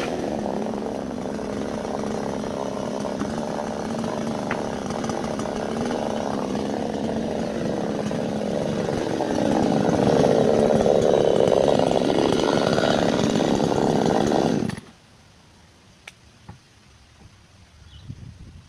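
Chainsaw running steadily as it cuts through wood, getting louder about halfway through, then cutting off suddenly near the end. A few faint clicks follow.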